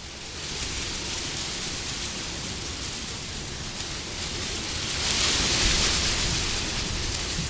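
Wind blowing in a steady rushing hiss, swelling into a stronger gust about five seconds in, then easing off.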